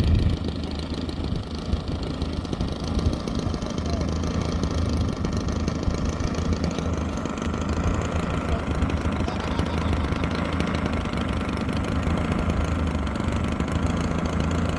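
Strong wind buffeting the phone's microphone: a steady low rumble that surges and eases.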